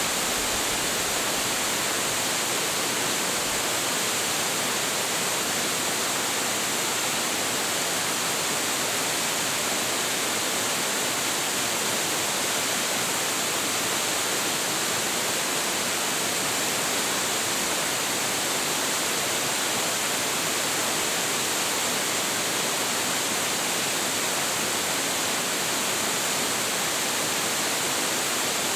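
Large waterfall with heavy flow, water crashing down in a loud, steady roar with no breaks.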